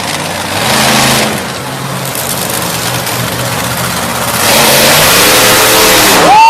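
Monster truck engine running with a steady low note, revving up hard in two loud surges: briefly about a second in, then longer from about four and a half seconds.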